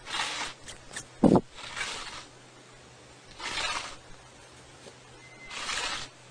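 A cat hissing in four short bursts, a second or two apart, with one sharp thump about a second in.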